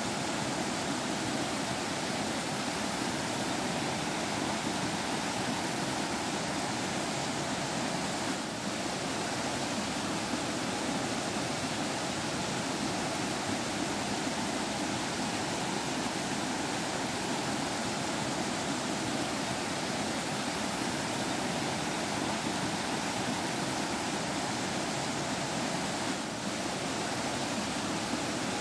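Forest stream with water flowing, a steady rushing babble.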